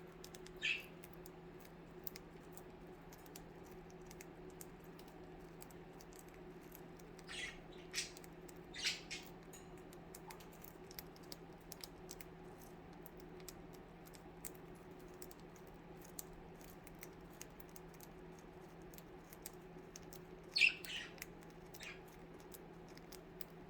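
Pet budgies chirping briefly a few times, about a second in, three times around seven to nine seconds, and once near the end. Between the chirps come many small clicks and taps of beaks and feet on cage, perches and treats, over a steady low hum.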